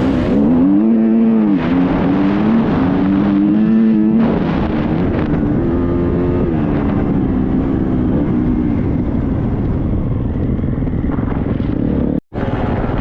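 Triumph 250 motocross bike's four-stroke single-cylinder engine revving up and down while being ridden hard. The pitch climbs steadily from about 1.5 s, then drops away just after 4 s as the throttle comes off or it shifts, under heavy wind rumble. The sound cuts out for an instant near the end.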